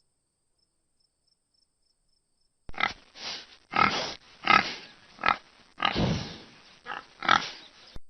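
A pig grunting, a run of about eight short grunts that begins about two and a half seconds in.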